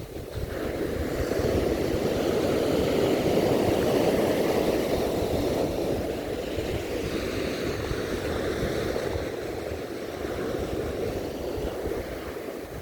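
Winter sea waves breaking and washing up a sandy beach, swelling over the first couple of seconds and easing off after about six seconds, with wind buffeting the microphone.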